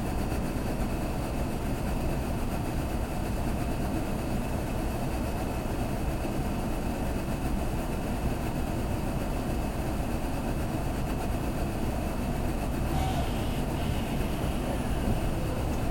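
Steady low rumble inside a Kintetsu limited express train car.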